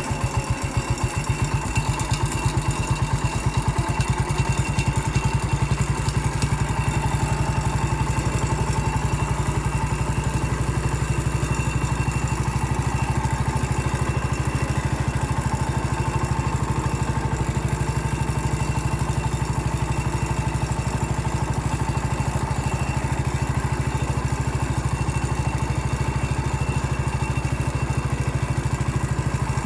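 Massey Ferguson 14 garden tractor engine running steadily as the tractor drives along, with an even, rapid firing beat.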